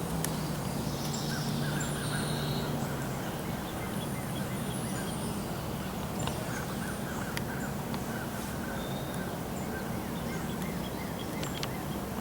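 Several wild birds calling, with short chirps and trills and a run of repeated calls, over a steady low hum.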